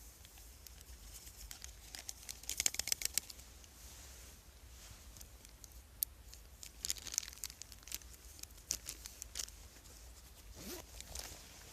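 Plastic or foil food packaging being crinkled and torn open in several bursts, the loudest about three seconds in and more around seven and nine seconds, with one sharp click in between.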